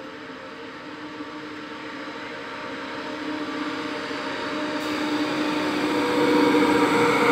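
Electric locomotive hauling a long container freight train, approaching and passing close by: a steady hum of a few tones over rumbling rail noise, growing steadily louder.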